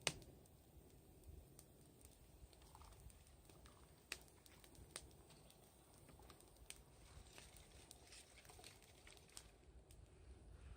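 Faint crackle of a wood fire: scattered sharp pops and ticks at irregular intervals, with a louder snap right at the start.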